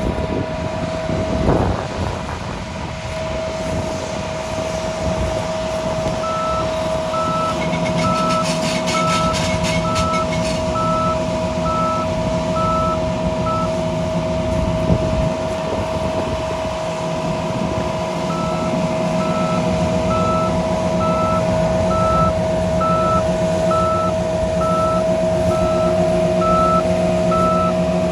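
A vehicle's reversing alarm beeping about once a second, in two runs with a pause between, over a running diesel engine and a steady high whine.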